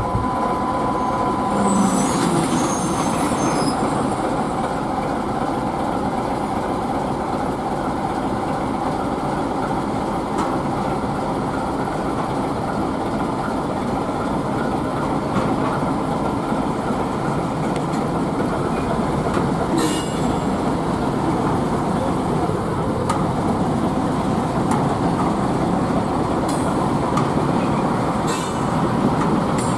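ChME3T diesel shunting locomotive and its train running steadily on the line, a dense even rumble of engine and wheels. A brief high squeal comes about two seconds in, and a few sharp clicks come in the last third.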